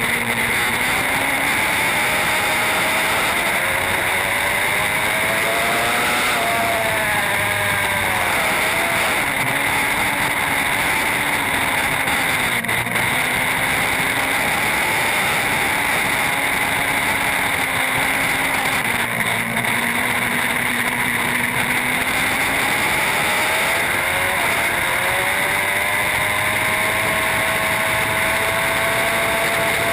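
Superbike-class racing motorcycle engine running at speed under a steady rushing noise. Its pitch climbs and then drops about a quarter of the way in, and climbs again near the end.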